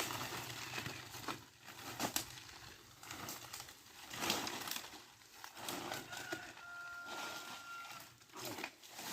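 Dry cashew-wood branches and twigs being handled, rustling and snapping in several separate bursts. A thin, steady high tone sounds faintly for about a second and a half in the second half.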